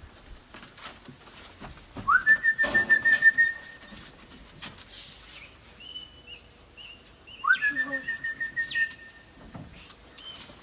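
A person whistling to call parrots: two long whistles, each sliding sharply up and then held with a rapid warble. Short high chirps come between them.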